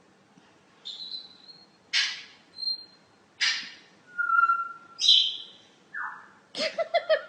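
A parrot calling: short high whistles mixed with harsh squawks, a falling whistle, then a quick run of short chattering calls near the end.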